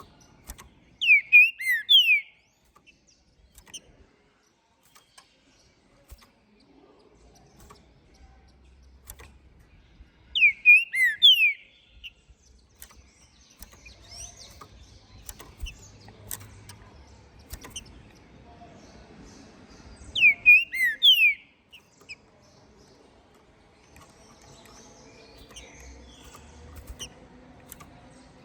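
A green-winged saltator (trinca-ferro) singing three short, loud whistled phrases of quick falling notes, about ten seconds apart. Faint ticks are heard between the phrases.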